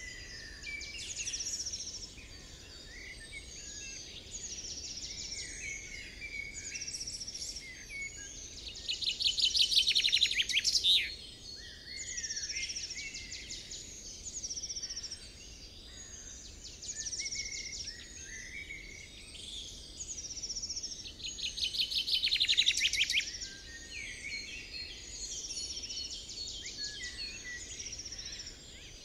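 Birds chirping and warbling in many short, high calls, with a louder rapid trill about a third of the way in and again about three quarters through.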